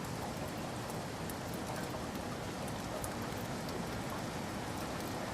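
Steady rain falling, a continuous even hiss with scattered drops landing on a surface.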